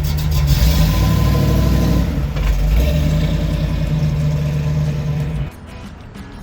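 A car engine running loud with a deep, steady rumble, which cuts off suddenly near the end.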